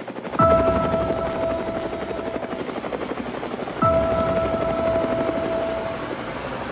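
Helicopter rotor chopping sound in a pop song's intro, fading in at the start. Three hits, each with a falling bass drop and a held synth chord, land about every three and a half seconds.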